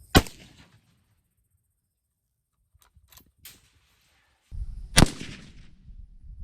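Two rifle shots of M80 ball .308 Winchester from a bolt-action Mossberg Patriot, each a sharp crack with a short ringing tail, about five seconds apart, with a few faint clicks in between.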